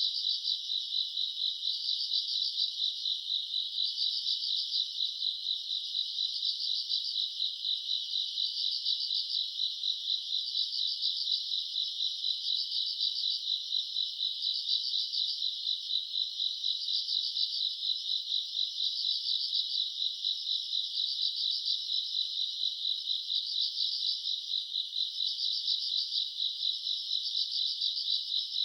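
Chorus of grass insects: a steady, high-pitched fast trill, with a louder pulsing chirp swelling in about every two seconds.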